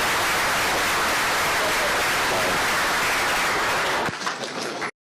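Audience applauding, a dense even clapping that thins to a few scattered claps about four seconds in, then cuts off suddenly.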